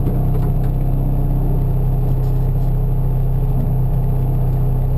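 Honda Civic VTi rally car's four-cylinder engine idling steadily, heard from inside the stripped cabin.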